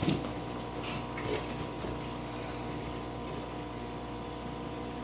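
Steady hum of aquarium equipment, with a few short knocks and splashes of water in the first two seconds.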